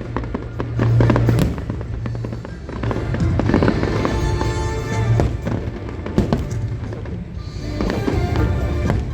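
Fireworks bursting and crackling in quick succession, with music playing along underneath.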